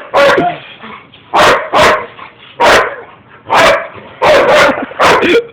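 Dog barking loudly and repeatedly, about nine sharp barks, several in quick pairs.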